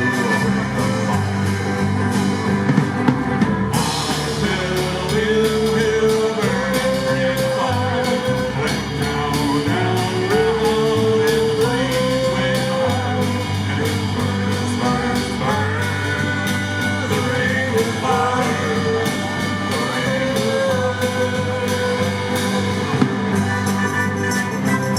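A live band playing a song, with a melody line moving over sustained accompaniment.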